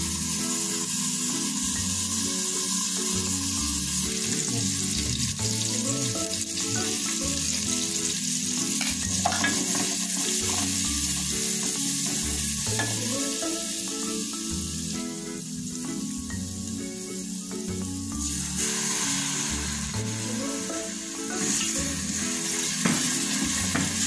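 Chopped onion and garlic sizzling in fat in an aluminium pot, stirred with a wooden spoon, and then tomato sauce stirred in as it cooks. Background music plays underneath.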